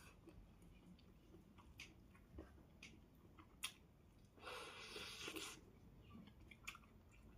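Faint close-up eating sounds: chewing with scattered small mouth clicks, and a louder crunching stretch of about a second just past halfway.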